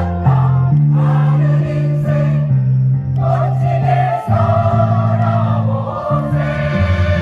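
Choir singing with instrumental accompaniment, the voices holding sustained notes over a steady bass line.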